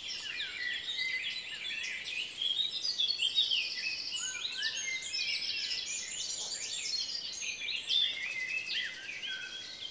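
Several birds chirping and whistling at once: many short rising and falling notes and quick trills overlapping.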